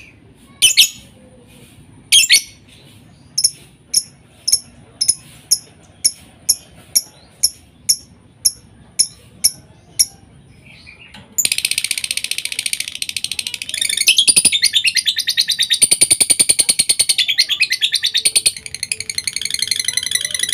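Lovebird calling: sharp high chirps repeated about twice a second. About halfway through, these give way to a long, unbroken rapid chatter, the extended 'ngekek' song bred for in fighter lovebirds.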